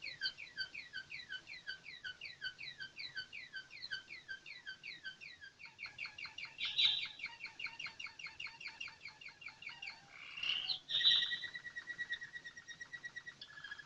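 American Singer canary singing: a run of quick down-slurred notes repeated about five times a second, changing about six seconds in to a faster, lower rolling trill. A louder burst comes near eleven seconds, followed by a steady rapid trill on one pitch.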